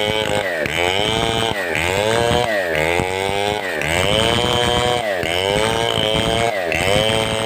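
Large 070-class two-stroke chainsaw (New West 707) running hard while cutting timber, its engine note dropping and climbing back about once a second.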